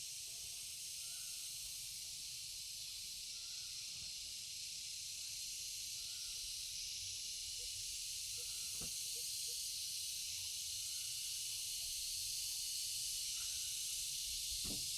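A steady, high-pitched hiss that grows slightly louder, with a few faint knocks.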